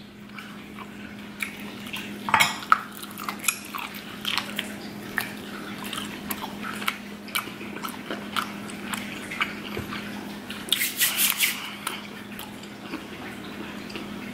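Close-up chewing and biting of boiled octopus tentacle: many small wet mouth clicks and smacks, with a louder cluster about eleven seconds in. A steady low hum runs underneath.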